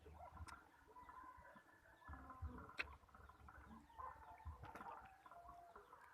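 Faint clucking of chickens in short scattered calls, with a few sharp clicks in between.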